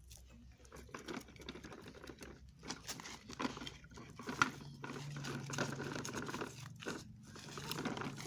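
Toy truck rattling and clattering as it is pulled along, a busy run of small clicks and knocks that grows louder after about three seconds.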